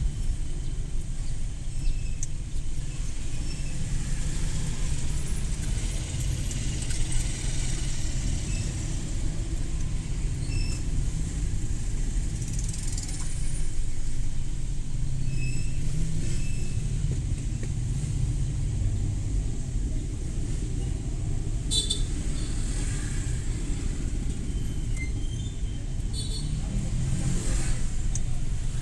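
Suzuki Every Wagon kei van driving through city traffic: a steady low rumble of engine and road noise, with a few faint short ticks and clicks about two-thirds of the way in and near the end.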